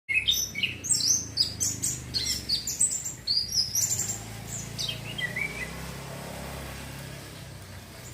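Young male orange-headed thrush practising its song: a fast, varied run of high whistled notes, trills and chirps for about four seconds, then a few softer notes before it falls silent.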